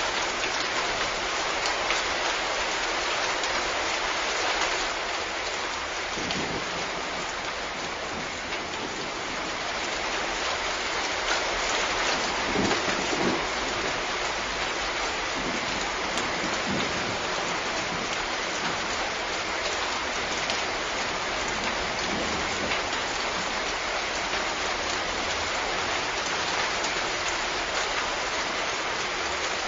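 Steady heavy rain falling in an even hiss, with a few brief low rumbles about twelve to thirteen seconds in.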